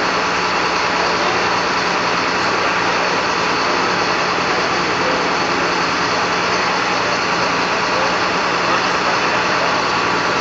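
Portable lumber mill running: a steady, unbroken engine drone with a constant low hum and a dense wash of noise over it.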